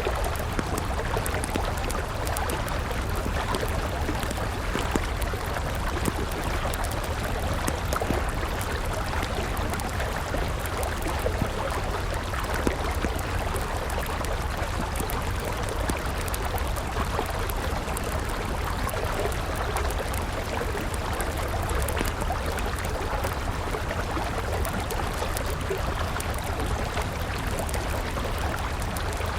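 River water rushing steadily, with the sharp, scattered crackles of a burning wood campfire over it.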